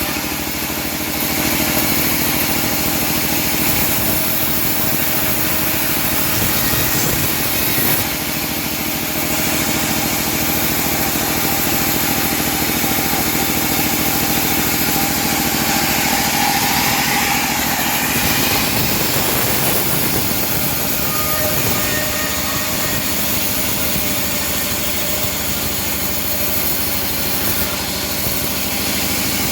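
Engine of a homemade bandsaw mill running steadily, driving the saw, with two brief dips in level.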